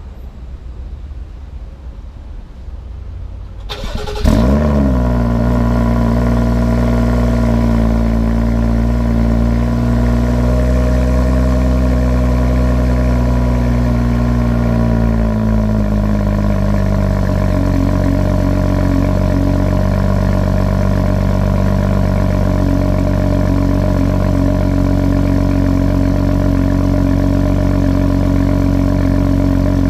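2017 BMW X4 M40i's turbocharged straight-six starting about four seconds in, with a short rev flare as it fires. It then runs at a steady raised idle that drops to a lower, settled idle about halfway through.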